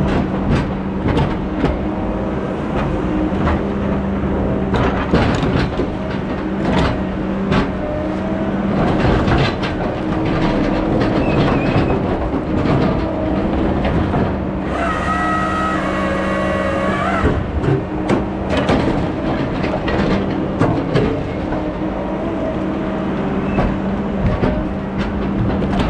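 A heavy logging machine's engine running steadily, with frequent clanks and knocks of metal working. A high whine lasting about three seconds comes just past the middle.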